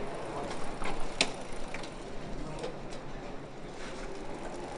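Scattered light clicks and ticks, the sharpest about a second in, over a low steady background noise.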